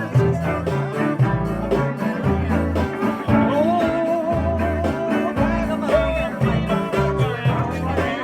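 Band music: a rhythm-and-blues groove with a pulsing bass line and a wavering lead melody line, played between sung verses.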